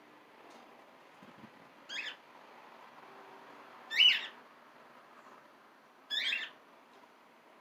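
A pet parrot giving three short, high calls about two seconds apart, the middle one loudest.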